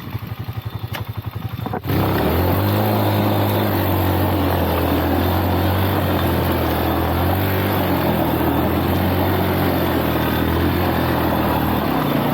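Lifan X-Pect dual-sport motorcycle engine running low, then about two seconds in revving up hard and held at high, steady revs for around ten seconds before easing off near the end. The bike is trying to climb a slope with too little rear-tyre grip to make it up.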